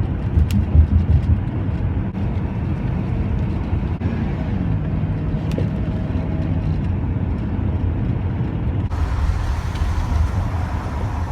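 Cargo van driving on a highway, with a steady low rumble of engine and tyre noise; more hiss comes in about nine seconds in.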